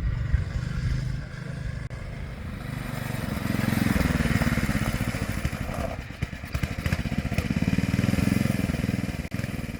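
Tote Gote trail bike's small Honda engine running, its loudness and pitch swelling twice as it is revved or ridden past.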